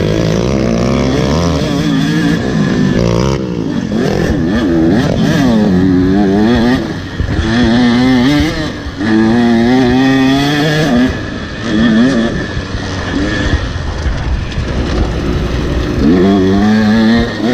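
Motocross dirt bike engine revving hard and backing off over and over, its pitch climbing and dropping every second or two as the rider works the throttle. There are a few brief lulls where the throttle shuts, under a steady rush of wind and rattle.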